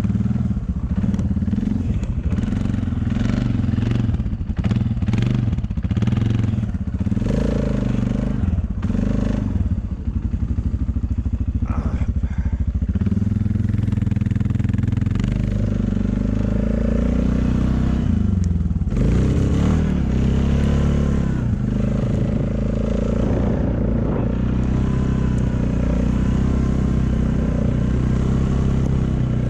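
A vehicle's engine running under changing load: uneven, pulsing revs in the first half, settling to a steadier drone in the second.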